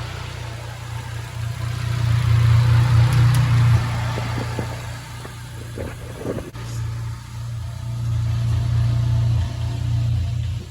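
Big-turbo Dodge SRT-4's turbocharged 2.4-litre four-cylinder engine running. It gets louder about two seconds in, eases off near four seconds, then swells again before falling off at the end.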